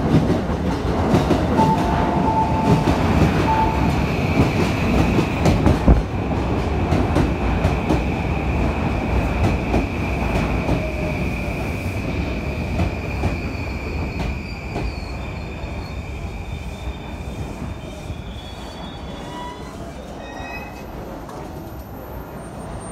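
Yamanote Line commuter train pulling into the platform and braking to a stop: wheels rumbling and clacking on the rails, growing quieter as it slows, under a long steady brake squeal that dies away in the last few seconds. A few short high electronic tones sound near the end.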